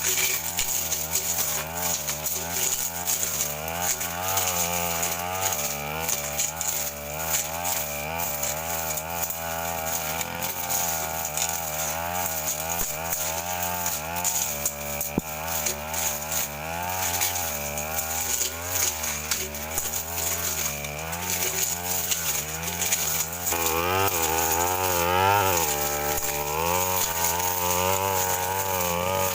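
Stihl FR 3001 backpack brush cutter running at high speed while clearing brush, its engine pitch rising and dipping over and over as the blade bites into the growth. It runs at a higher pitch for the last several seconds.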